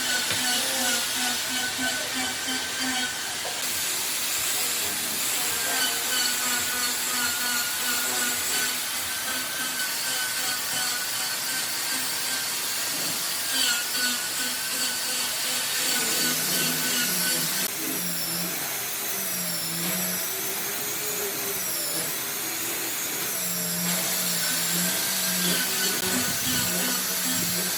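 A woodworking power tool running on wood: a steady noisy whir with a wavering whine through it.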